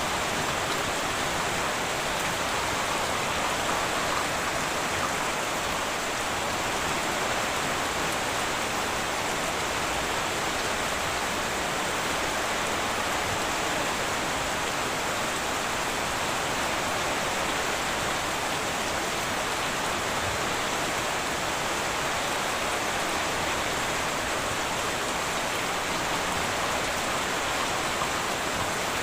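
Heavy rain on a tin roof: a steady, even hiss of rain with no thunder and no separate drops standing out.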